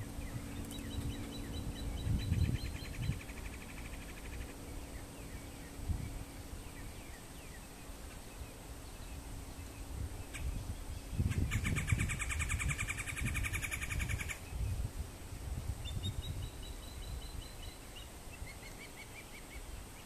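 Birds calling: a series of short, high chirps near the start and again near the end, and about eleven seconds in a loud, rapid rolling call of a red-bellied woodpecker lasting about three seconds. A low rumble runs underneath.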